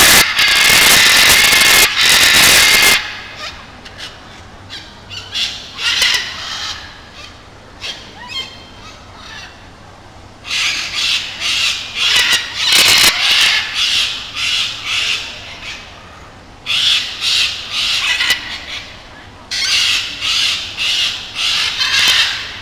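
Parrots squawking in loud bouts of rapid, harsh, repeated calls, with quieter stretches between bouts.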